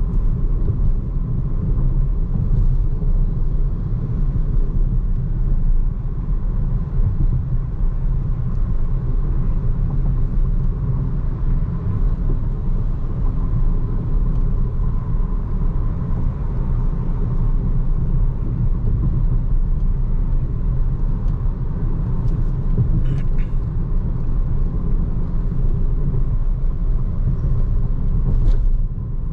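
Steady low rumble of road and tyre noise from a BYD Seagull electric car driving on a city road, with no engine sound beneath it.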